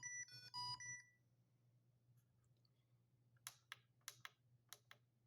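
A few quick electronic beeps in the first second, then quiet, then a run of light clicks starting about three and a half seconds in.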